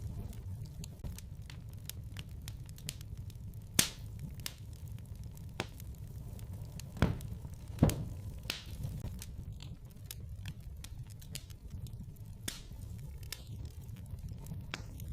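Wood fire burning in a fireplace: a steady low rumble with scattered crackles and a few sharp pops, the loudest about four, seven and eight seconds in.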